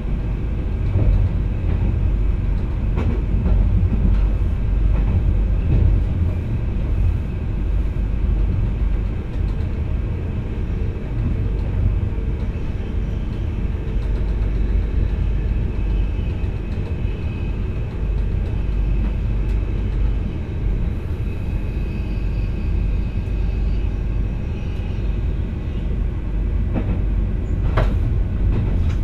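VIRM double-deck electric train running, heard from the driver's cab: a steady low rumble, with a faint high whine in the second half and one sharp click near the end.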